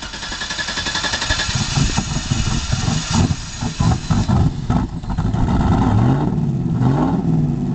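2001 Chevy 1500 Z71 pickup's engine being restarted after stalling in water. It is loud and rough at first, then runs with the revs rising and falling over the last couple of seconds.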